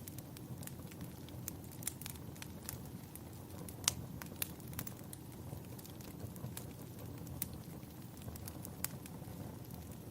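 Wood fire crackling in a fireplace: irregular sharp pops and snaps over a steady low rumble, with one louder pop about four seconds in.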